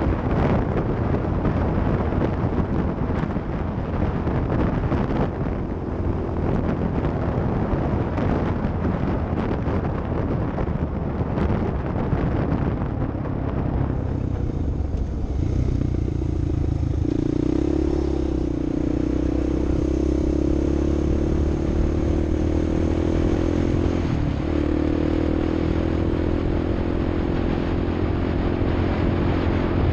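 Off-road vehicle on the move, with rough wind and rumble noise for the first half. About halfway through, a steady engine note comes through clearly and rises slightly in pitch.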